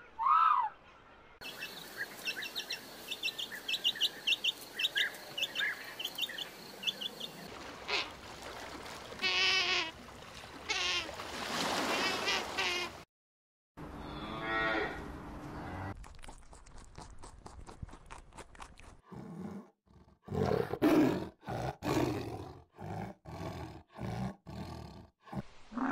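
A string of different animal calls cut one after another: a short call, then a stretch of high, quick chirping, then a pitched call after a brief break, ending with a series of loud, deep calls repeated about once a second.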